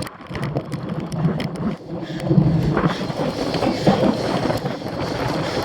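Wind buffeting the microphone of a camera riding on a cyclocross bike, with the bike rattling and clicking over rough ground.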